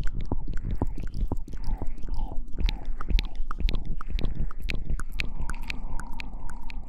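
Close-miked ASMR trigger sounds: a dense run of irregular wet crackles and squishy clicks, with a low rumble underneath.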